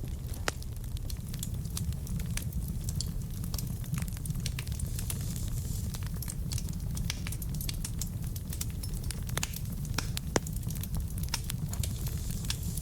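Wood fire burning in a fireplace: a steady low rumble of flame with frequent irregular crackles and pops from the burning logs, one sharper pop near the end.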